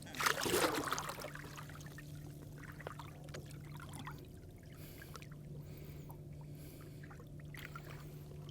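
A thornback ray splashing back into the sea as it is released over the side, then water lapping and trickling around the small boat over a steady low hum.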